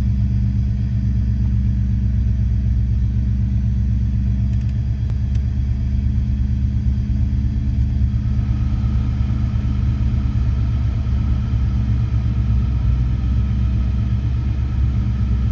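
Porsche 928 V8 engine idling steadily, a low even rumble. About eight seconds in, a steady higher hum joins it.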